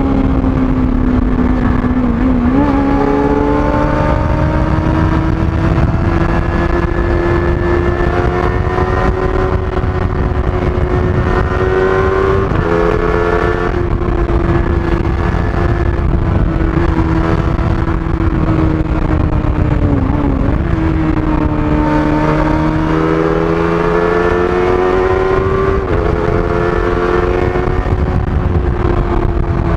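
Kawasaki ZX-25R's 249 cc inline-four running high in the revs through its stock exhaust while ridden, a steady high-pitched engine note. Its pitch creeps slowly and dips briefly about four times, a few seconds in, around the middle and twice near the end.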